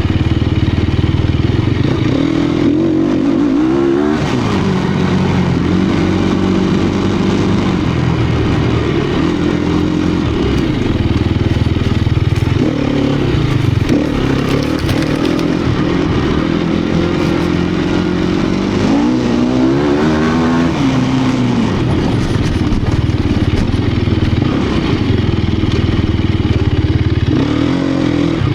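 2018 Sherco 250 SEF Factory's four-stroke single-cylinder engine running under riding load off-road, its pitch repeatedly rising and falling as the throttle is opened and shut.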